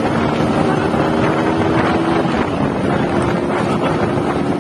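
Yamaha RX-King's two-stroke single-cylinder engine running under way through its stock catalytic-converter silencer, with heavy wind noise on the microphone. The engine note breaks off briefly about halfway and picks up again slightly higher.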